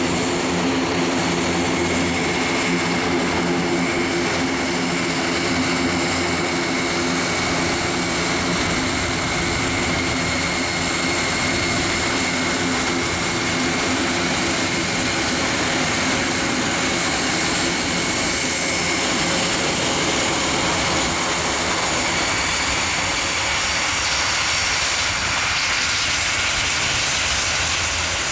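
Airbus A400M Atlas's four turboprop engines running steadily as it taxis: a propeller drone with a high whine over it. The low tones fade in the second half.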